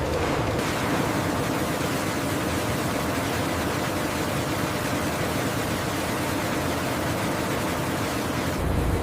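Steady, even rushing noise with no rhythm or distinct events, typical of running machinery or water on a processing line. Near the end it changes abruptly to a deeper rumble.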